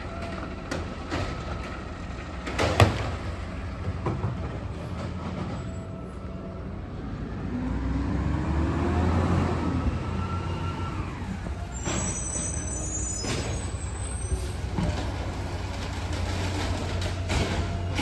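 Garbage truck's diesel engine running, revving up and back down about halfway through. There is a sharp knock near the start and a short high squeal with clicks around twelve seconds in.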